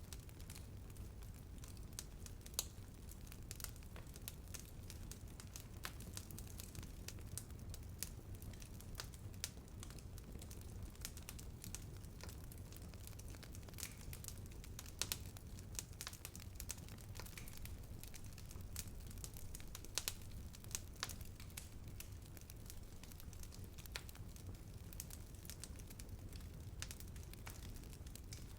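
Wood fire burning, with a steady low rumble of the flames and irregular crackling: scattered sharp snaps and a few louder pops.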